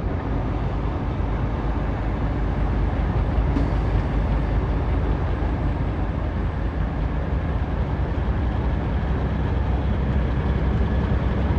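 Semi-truck cab at highway speed: a steady low engine drone with tyre and road noise, heard from inside the cab.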